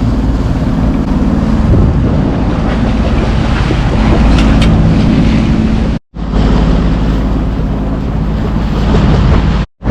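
A yacht's engine running steadily under way, with wind buffeting the microphone and water rushing past. The sound drops out abruptly twice, briefly, about six seconds in and near the end.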